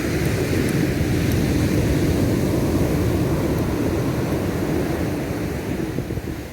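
Atlantic surf breaking on the cove's beach: a heavy, low rushing wash that swells in the first second or so and eases off near the end, with wind buffeting the microphone.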